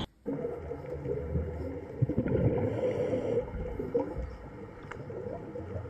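Underwater ambience: muffled gurgling and bubbling water with a steady low hum, and one sharp click about two seconds in.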